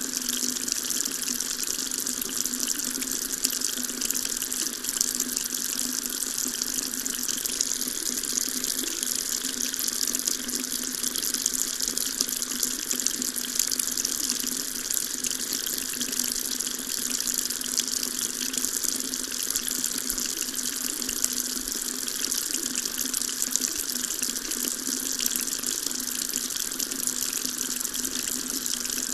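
Water tap running steadily, the stream splashing into a sink with an even hiss.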